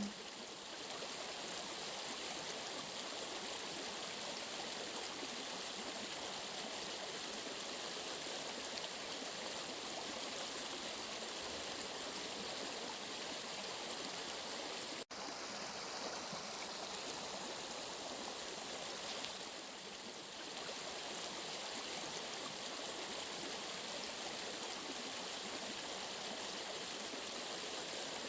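Steady rushing of running water, as of a stream, with a momentary dropout about halfway through.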